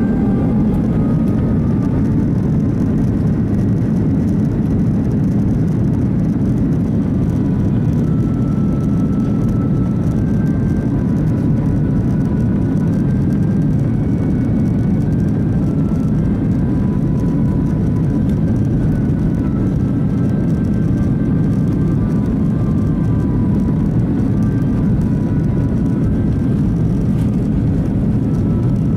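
Airliner cabin noise: a steady, even rumble of engines and airflow with no change in level.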